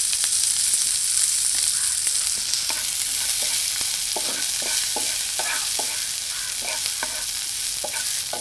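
Ginger, garlic and slit green chillies sizzling in hot oil in a pan. From about two and a half seconds in, a spoon scrapes and taps against the pan several times a second as they are stirred.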